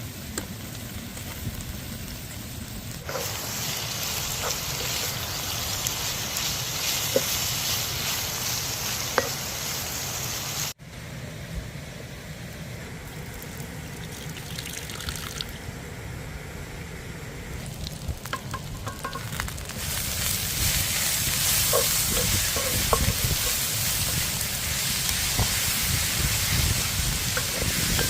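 Food sizzling as it fries in a pan, a steady hiss with a few small clicks and pops. It grows louder from about twenty seconds in.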